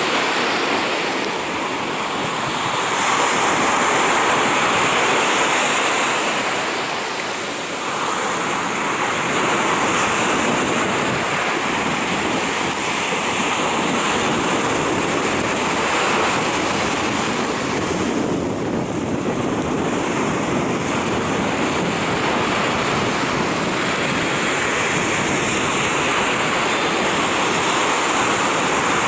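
Sea surf washing continuously onto a beach, a dense rush of breaking waves that swells and eases slightly.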